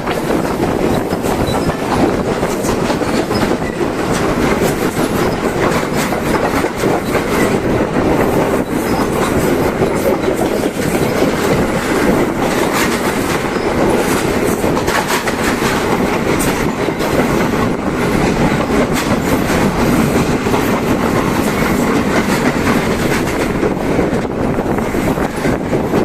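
Passenger train running steadily along the line, with a continuous rumble and many quick clicks of the wheels clattering over the rail joints.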